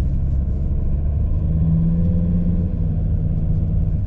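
Car being driven: a steady low rumble of engine and road noise, with an engine hum that comes up about a second and a half in.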